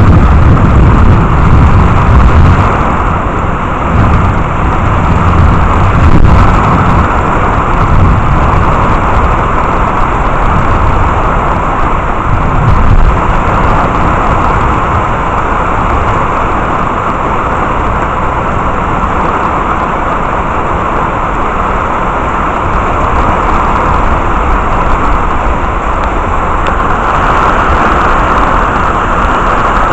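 Heavy rain pouring steadily during a thunderstorm, with low rumbling strongest in the first few seconds and swelling briefly twice more.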